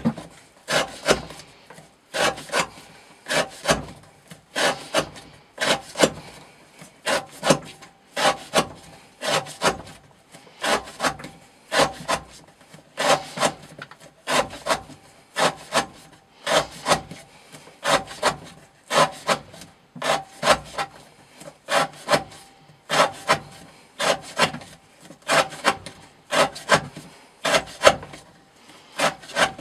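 Elmax steel knife blade slicing through rope, one short cutting stroke about every second in a steady rhythm: repeated cuts in a rope-cutting test of how long the edge stays sharp.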